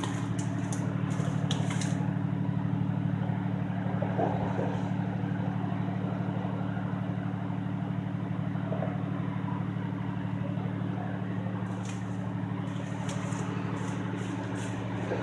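A large engine idling steadily with a low, even hum, with quick high ticking in the first couple of seconds and again near the end.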